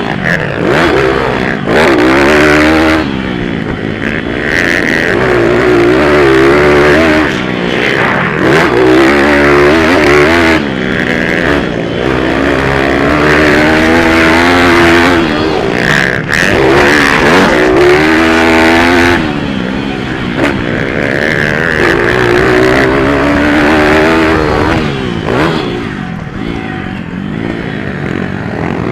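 Pit bike engines racing: small single-cylinder engines revving up and dropping back again and again as the riders shift and brake, with several bikes sometimes heard at once.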